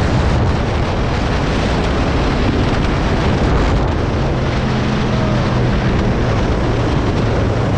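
Heavy wind rushing over the microphone while riding a moped, with the small engine's steady drone underneath, more distinct from about halfway through.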